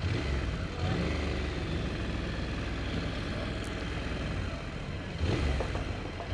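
Motorcycle engine running as the bike rides in slow traffic, its note rising twice as it accelerates: about a second in and again near the end.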